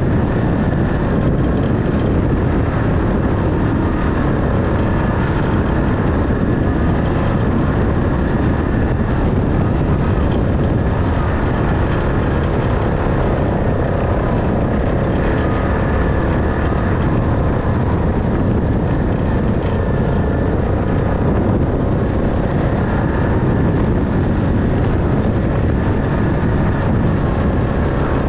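A vehicle engine running steadily under constant load, an even drone with no breaks or changes in pitch.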